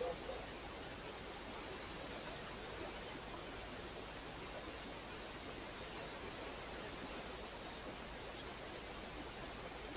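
Steady hiss from a trail camera's microphone, with a short click right at the start.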